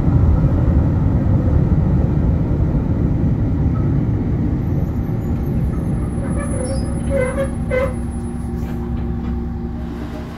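Diesel railcar running with a low, steady rumble that slowly dies away. A few short higher-pitched tones and clicks come about seven seconds in.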